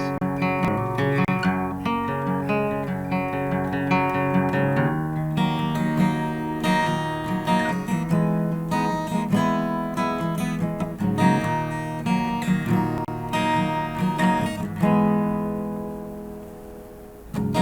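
Acoustic guitars playing an instrumental passage of a rock song, with picked notes and strummed chords. Near the end a chord rings and fades away, then the playing comes back in strongly.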